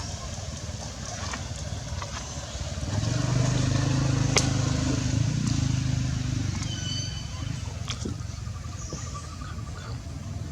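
A low engine hum swells about three seconds in and fades away over the next four seconds, over steady outdoor background noise with scattered clicks. A brief high-pitched squeak comes just before the hum dies away.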